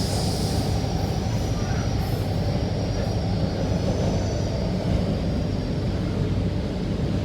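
Rotem EMU metro train running between stations, heard from inside the car: a steady rumble with a faint, wavering high whine above it.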